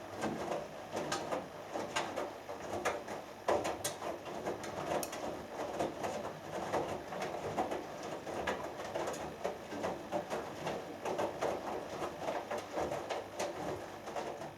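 Hoover Dynamic Next front-loading washing machine in its main wash: the drum turns and the wet laundry tumbles and sloshes in uneven swishes, with frequent sharp clicks and knocks against the drum.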